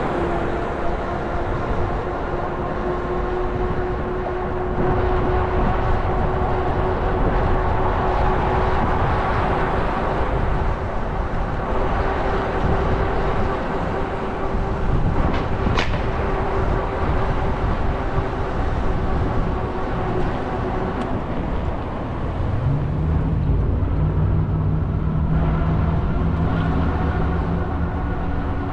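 Interior ride noise of a moving Muni city bus: a steady rumble of motor and road with a constant whine. A little over twenty seconds in, a lower drive tone rises in pitch and then holds steady.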